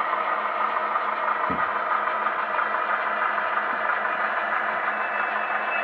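HO scale model locomotive running along the layout track, a steady mechanical hum with a few steady tones through it and one brief knock about a second and a half in.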